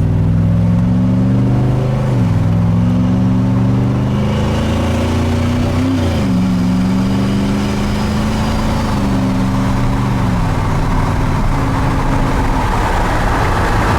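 Twin-turbo Ford F-150 engine pulling hard, its pitch jumping at gear changes about two and six seconds in, then falling in steps as the truck eases off, with a faint high whine over the middle.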